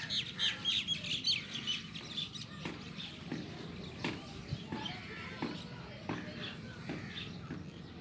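Birds chirping in quick, high calls, thickest over the first two seconds, then thinning to scattered short calls and clicks.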